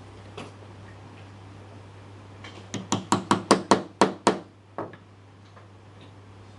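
A quick run of about eight sharp knocks on wood, roughly five a second, starting a little before the middle, then one more about half a second later: parts of a hand-made mortise-and-tenon wooden piece being tapped and knocked while it is handled. A steady low hum runs underneath.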